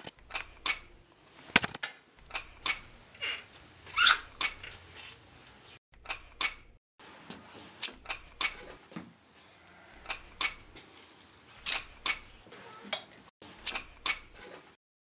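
A run of sharp metallic clicks and clinks, irregularly spaced at about two a second, some with a brief high ring, cutting off abruptly near the end.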